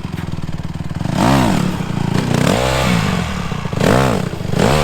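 Dirt bike engine revving hard and dropping back, its pitch climbing and falling about four times as the throttle is opened and closed for wheelie attempts.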